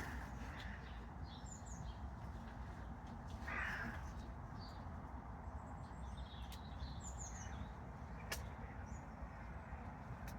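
Wild garden birds calling: short, high chirps several times, and one louder, rasping call about three and a half seconds in. A steady low rumble underneath, and a single sharp click a little after eight seconds.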